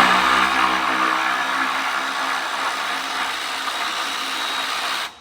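Power ratchet on a socket and extension running steadily as it spins out a 12 mm bolt, then stopping abruptly near the end.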